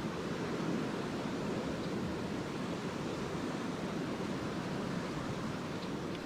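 Small lake waves washing steadily onto a sandy shore, a continuous low rushing surf with no breaks.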